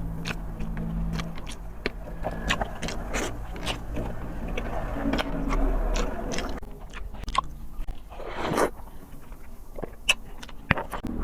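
A person chewing a mouthful of sautéed bottle gourd (ginisang upo) close to the microphone, with frequent wet clicks and smacks of the mouth, over a low steady hum.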